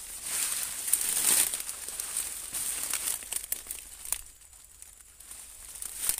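Dry leaves and undergrowth crackling and rustling, as of someone pushing and stepping through brush. It is busiest in the first second and a half and falls to a lull about four seconds in.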